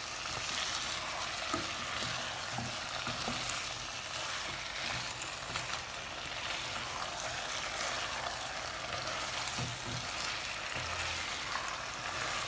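Chicken and mixed vegetables sizzling steadily as they fry, being stirred, with a few light knocks.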